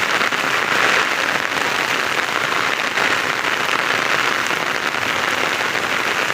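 Rain falling steadily: a dense, even hiss of drops.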